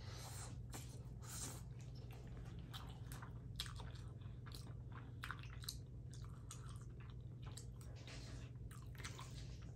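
A person chewing a mouthful of soft macaroni and cheese, with many small, irregular wet mouth clicks, over a steady low hum.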